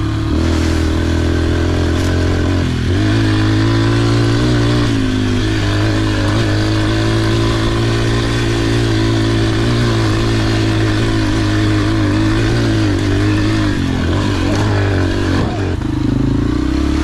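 Small dirt bike engine running steadily under load on a trail ride, its note stepping up in pitch about three seconds in and then holding with small rises and falls.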